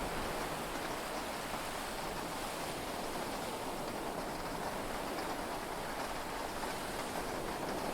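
Heavy rain falling steadily on a yacht, heard from inside the cabin as an even, unbroken hiss.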